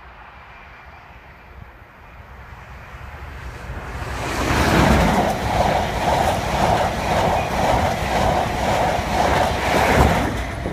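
An East Coast express passenger train passing at speed. Its rumble builds from about two seconds in, runs loud for about five seconds with a rhythmic clatter of the wheels, and drops away near the end as the train clears.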